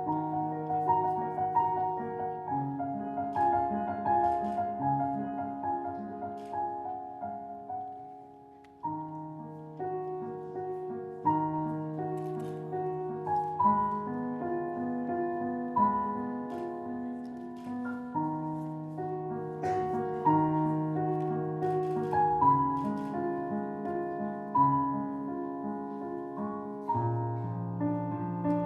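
Solo piano playing a slow, lyrical passage of held chords and melody notes. It dies away about eight seconds in, then starts again.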